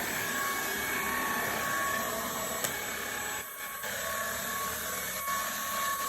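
Dibea FC20 cordless stick vacuum running steadily, a motor whine over the rush of air, with a brief dip in the sound about three and a half seconds in.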